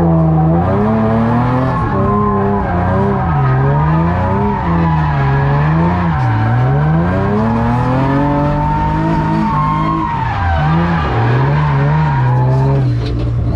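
A vehicle engine running hard, its pitch swinging up and down over and over as it is revved and let off.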